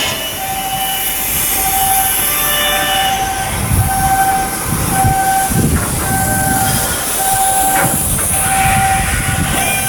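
A repeating beep, on and off about once a second, over machinery noise. From about three and a half seconds in, a low rumble swells in and out beneath it.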